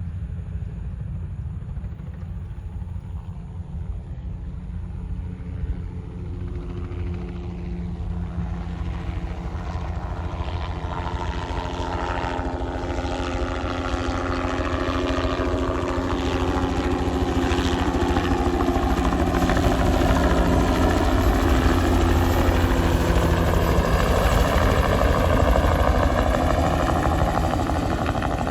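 Crop-spraying helicopter flying in close, its rotor and engine growing steadily louder from about a quarter of the way in. Its pitch slides down and then back up as it passes.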